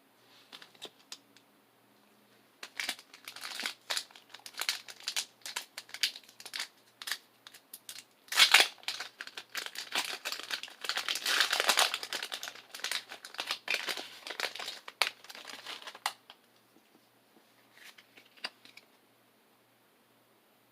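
Foil Pokémon booster pack wrapper being crinkled and torn open. The crackling runs dense from about two seconds in, is loudest in the middle, and stops well before the end, leaving a few faint crinkles.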